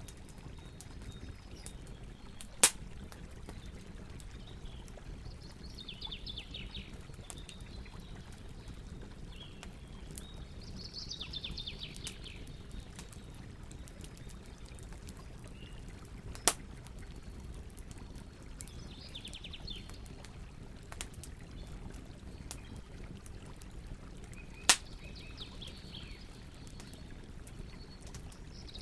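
Campfire crackling, with three sharp loud pops, over a steady low rush of river water. Birds call several times in short, rapid trills.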